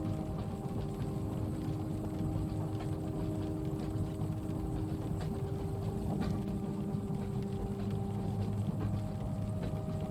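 Train-carriage ambience: the steady low rumble of a moving train, with a hum of steady tones over it and faint scattered ticks of rain on the window.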